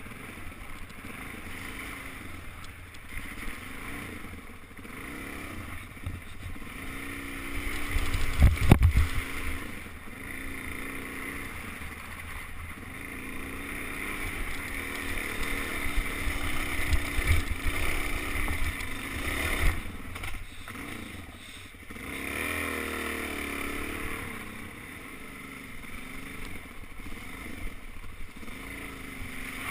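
Suzuki DR-Z400 dirt bike's single-cylinder four-stroke engine running on a trail ride, its revs rising and falling, with wind rumble on the helmet camera. A loud thump stands out about eight and a half seconds in.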